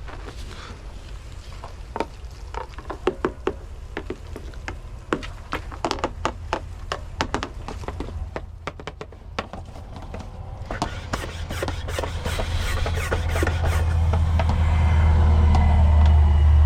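A run of irregular knocks and clicks, then a low rumble that builds steadily louder over the last few seconds.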